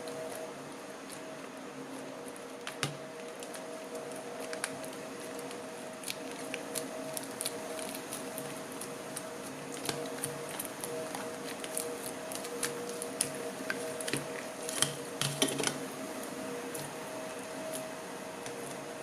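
Homemade no-glue slime being poked and squished by hand, giving soft sticky squelches, clicks and pops, scattered through and thickest about three quarters of the way through, over a steady faint hum.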